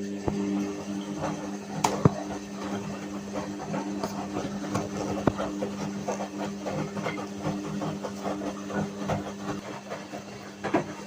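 Whirlpool washing machine motor starting up and turning the drum, a steady hum with irregular light clicks and rattles from the tumbling load.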